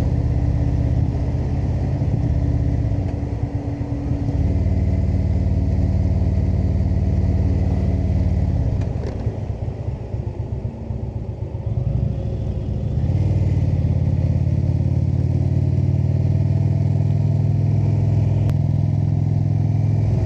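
Indian motorcycle's V-twin engine running under way at cruising speed. It eases off briefly a few seconds in, then again for several seconds near the middle, before pulling steadily again.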